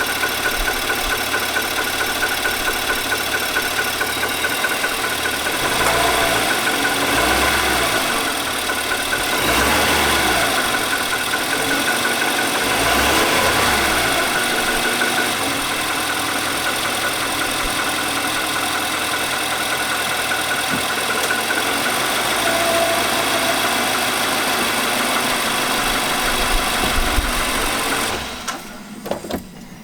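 2018 Nissan Armada's 5.6 L V8 (VK56) running with a steady, rhythmic knock, the engine speed rising and falling three times, then the sound cutting off near the end. The owner questions whether the knock is normal, with reference to Nissan service bulletin NTB19-057.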